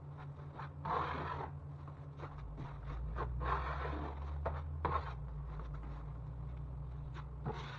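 Intermittent scraping strokes of a hand tool against drywall, with a few sharp clicks and a steady low hum underneath.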